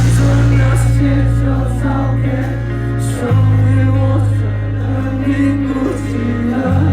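Rock band playing live: sustained bass notes, drums with cymbal hits, and a man singing over them.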